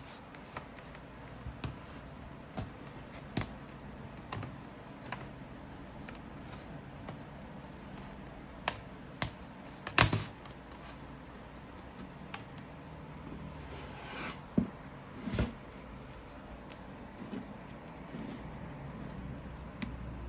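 Sparse light clicks and taps, irregularly spaced, over a faint steady hum; the loudest is a sharp knock about halfway through.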